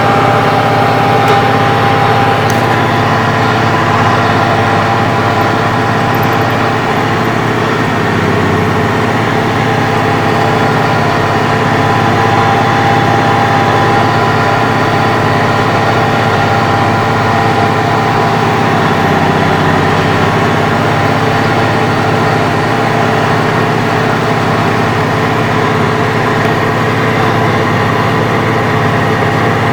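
Case IH Magnum 7210 tractor's six-cylinder diesel engine running at a steady speed, with no change in pitch or loudness.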